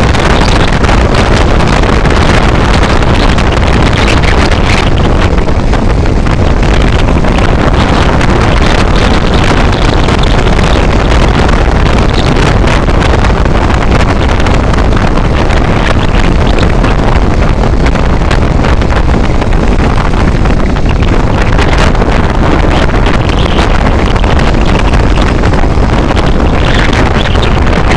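Loud, steady wind rumble on the microphone together with the noise of a moving vehicle on the road.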